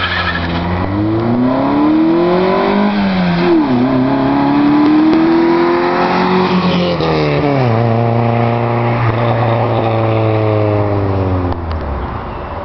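Honda Accord (CB7) four-cylinder engine accelerating hard past and away. The pitch climbs through the revs, drops sharply at a gear change about three and a half seconds in, climbs again and drops at a second shift about seven seconds in. It then holds steady and fades near the end.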